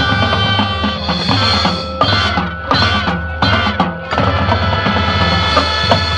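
Marching band playing: sustained brass and wind chords over drums and percussion strikes.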